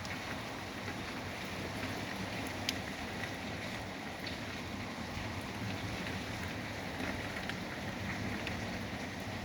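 Steady rush of wind and rain in a severe thunderstorm, with scattered faint sharp ticks.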